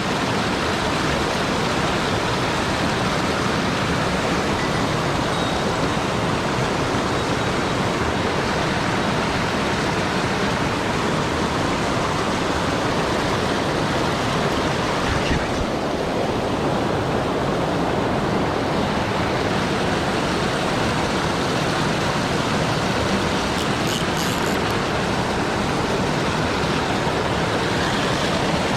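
Mountain stream rushing steadily over rocks, a continuous even roar of water.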